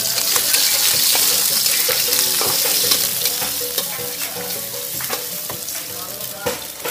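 Seblak mie goreng ingredients sizzling in a hot pan as they are stir-fried, with a spatula clicking and scraping against the pan. The sizzle is loudest over the first few seconds and then eases off.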